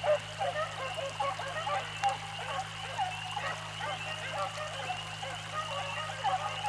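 A pack of beagles baying on a rabbit's track, their short cries overlapping in a continuous chorus.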